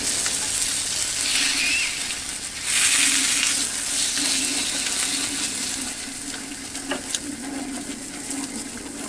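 Hot oil sizzling steadily as flatbreads fry on a griddle, growing louder about three seconds in, over a steady low hum. A single sharp click comes about seven seconds in.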